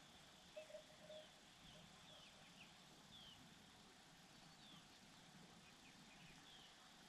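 Faint small-bird chirps outdoors: short high notes, each falling in pitch, repeated every half second or so. A brief lower-pitched squeak about half a second to a second in is the loudest sound.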